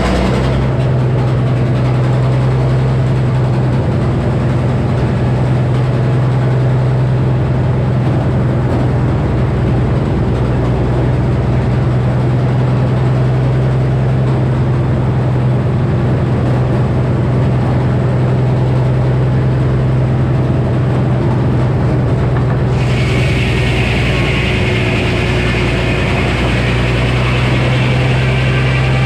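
Frick sawmill with its 48-inch circular saw running, a steady low drone throughout. About three-quarters of the way in a higher hissing sound joins it and carries on.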